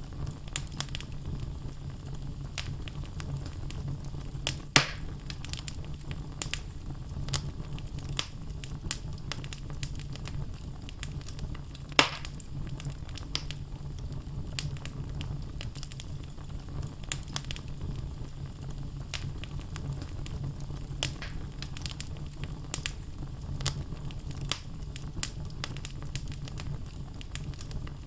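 Wood logs burning in a fireplace: a steady low rumble of flame under constant small crackles, with two louder pops about 5 and 12 seconds in.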